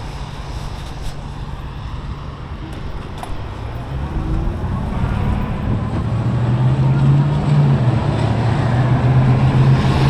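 Riding noise: wind on the bare microphone over a steady low engine hum, which grows louder from about four seconds in.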